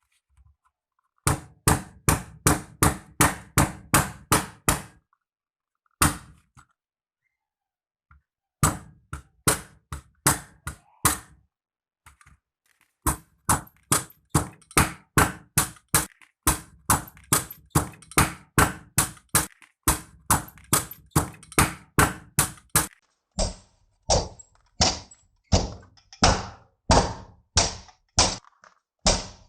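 Runs of sharp, hollow knocks, about three a second, broken by a few gaps of silence.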